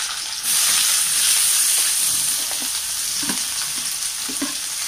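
Chopped tindora (ivy gourd) dropping into hot oil in a kadai and sizzling hard. The sizzle grows louder about half a second in, then holds steady.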